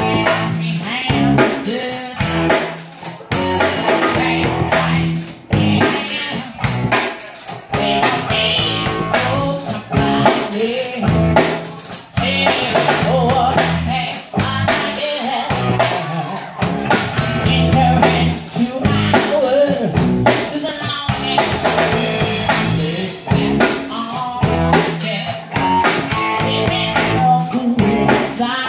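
Band music with drum kit and electric guitar, playing continuously.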